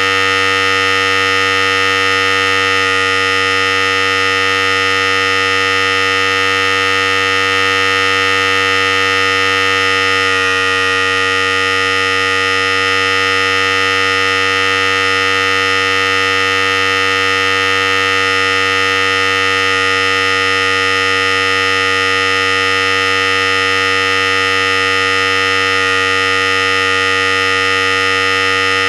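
Philips Series 5000 electric hair clipper running continuously with a steady buzz, its tone shifting slightly about ten seconds in.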